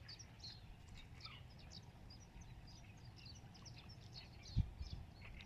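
Many small birds chirping, a dense run of short high calls overlapping one another, with one dull low thump about four and a half seconds in.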